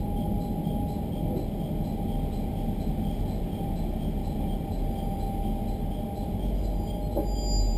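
Cabin noise of a local train running slowly into a station: a steady low rumble with a faint steady tone over it. There is a brief knock near the end.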